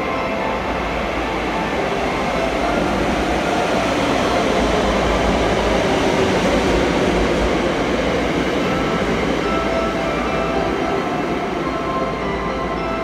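521 series electric multiple-unit train pulling into the platform and running past close by as it slows for its stop: a steady rumble of wheels on rail, loudest about halfway through as the cars pass, then easing off.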